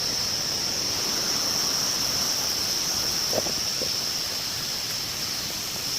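Steady, shrill drone of insects in the forest over an even rushing hiss, with a brief faint call about three and a half seconds in.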